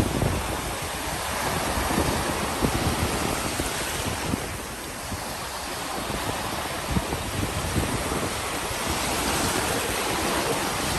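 Ocean surf washing onto a beach in a steady rush, easing off about four seconds in and then building again.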